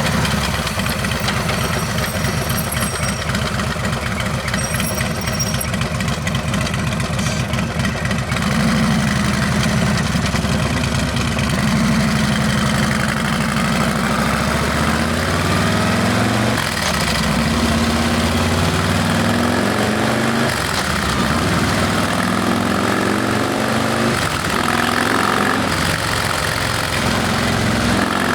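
Harley-Davidson Heritage Classic's Milwaukee-Eight 114 V-twin through a Rinehart exhaust, first running at a steady low beat, then from about halfway revving up and down repeatedly as the bike pulls away and shifts.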